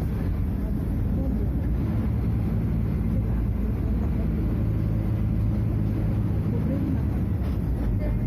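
Scania F250HB bus's DC09 five-cylinder diesel engine running with a steady low drone.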